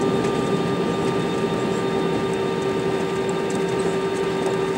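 Steady cabin noise inside an Airbus A320-200 on the ground after landing: the engines at idle and the cabin air flow, with a steady hum over it.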